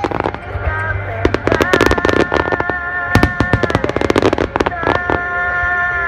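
Fireworks bursting in a dense, rapid barrage, the grand finale of a fireworks display, with a song's held notes playing alongside.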